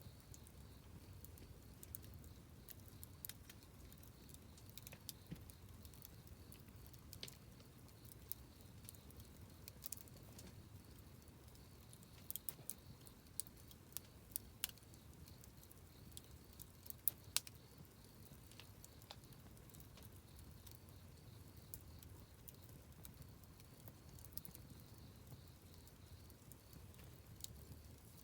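Wood campfire burning quietly, crackling with scattered sharp pops over a low steady rumble; the pops come thicker and louder about halfway through.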